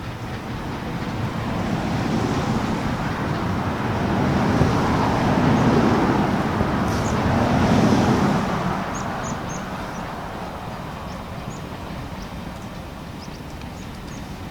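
A steam-hauled train passing by, growing louder to its loudest about eight seconds in, then fading away.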